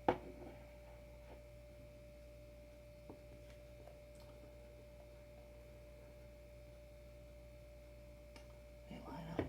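A quiet room with a steady faint hum and a thin, even tone. There is a sharp knock at the very start, a few faint ticks, and soft handling noise near the end, as board parts are moved.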